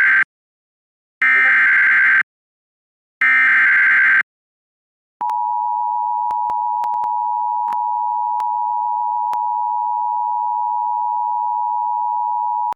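Emergency Alert System broadcast header: the end of one burst of warbling data tone and then two more, each about a second long and a second apart. Then the two-tone EAS attention signal (853 and 960 Hz together) holds steady for about eight seconds, announcing a severe thunderstorm warning.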